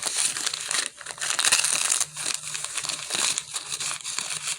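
Gift wrapping crinkling and rustling as a present is opened by hand: a dense run of crackles with a brief lull about a second in.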